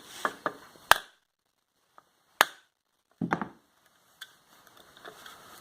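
A few sharp clicks and knocks of tools and metal motor parts being handled, the loudest about a second in and about two and a half seconds in, with a small cluster of knocks a little after three seconds.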